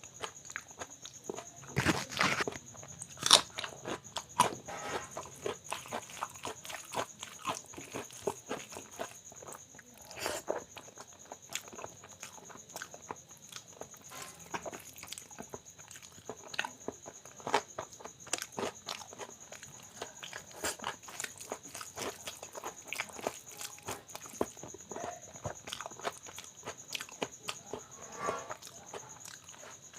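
Close-miked eating sounds: a person chewing mouthfuls of ghee-soaked soft rice with mashed potato and dal bharta, with wet smacking and frequent sharp mouth clicks.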